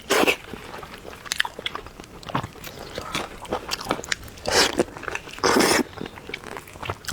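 Close-miked chewing and biting of food, mostly small wet mouth clicks, with a few louder bursts about four and a half and five and a half seconds in.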